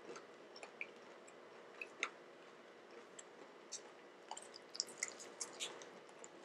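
A person chewing fried chicken dipped in sweet and sour sauce: scattered soft, wet mouth clicks and lip smacks, with a denser run of clicks about four to five and a half seconds in.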